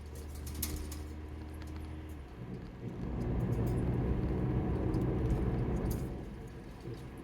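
Car engine and road noise heard from inside the moving car: a steady low hum that grows louder and rougher about two and a half seconds in, as if the car speeds up. There are a few light clicks or rattles.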